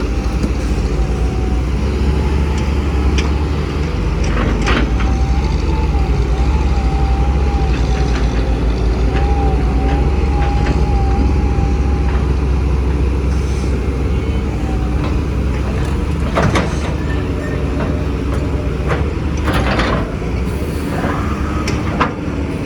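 Heavy diesel machinery of an excavator loading dump trucks, running steadily with a deep rumble. A wavering whine is heard for several seconds near the middle, and there are a few sharp knocks.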